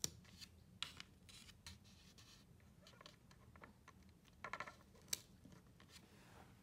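Faint scratching with a few light clicks, as small objects are handled.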